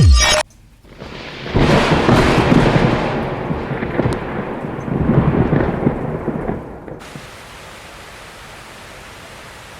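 A long roll of thunder that swells for several seconds and dies away, then steady rain hiss.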